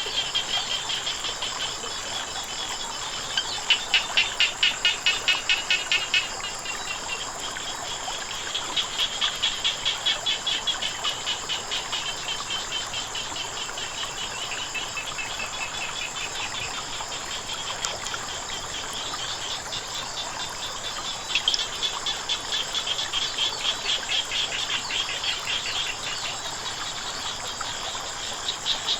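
Frogs calling in bouts of rapid pulsed croaks, three loud bouts standing out, over a steady high-pitched insect drone, with a soft wash of running water underneath.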